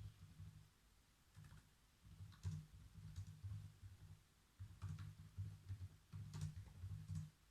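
Faint computer keyboard typing: several short runs of keystrokes with brief pauses between them.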